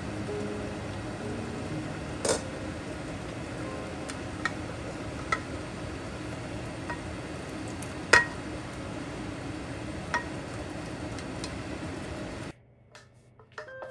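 Dishes and utensils clinking and knocking every second or two over a steady background hiss, the loudest clink about eight seconds in; the sound cuts off abruptly near the end.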